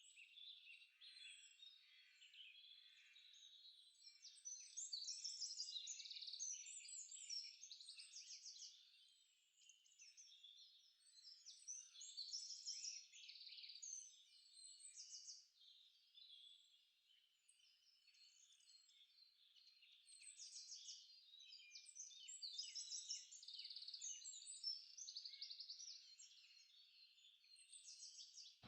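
Faint chorus of small birds chirping and twittering in quick, overlapping calls, busier about five seconds in, around twelve seconds, and again from about twenty-two seconds.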